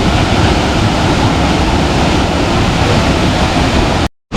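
Loud, steady roar of a large waterfall, the water falling a couple of hundred feet and running high after heavy rain upstream. It cuts out to silence for a moment near the end.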